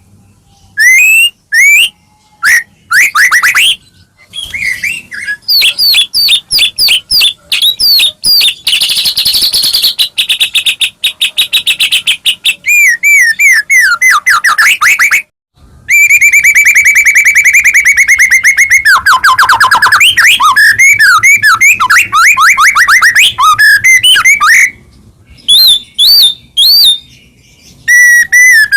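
White-rumped shama singing loudly in rapid, varied whistled phrases with short pauses. About halfway through it breaks into a long, fast run of repeated notes before returning to looping whistles.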